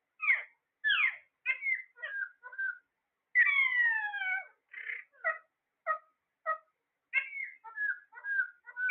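Parrot calling: a quick series of short chirps and whistles, with a longer call sliding down in pitch about three and a half seconds in.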